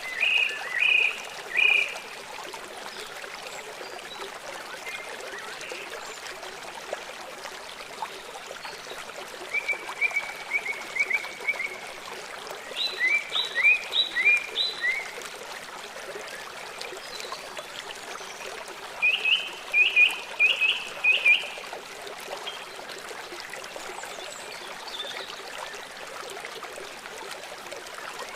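A bird calling in short phrases of quick, repeated high chirps, four phrases spread across the stretch, over a steady hiss like running water.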